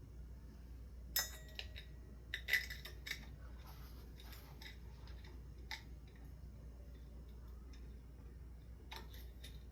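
Small metal clinks and taps from screws and metal fan parts being handled. The clearest is a ringing clink a little over a second in, followed by a few scattered light taps, over a steady low hum.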